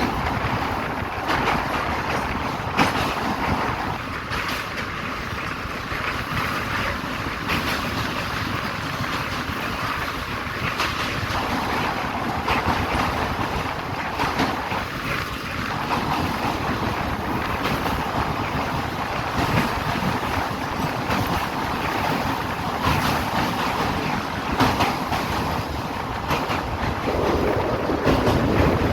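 Passenger train moving through the station: a steady rumble with irregular clicks and clanks of the wheels and coaches.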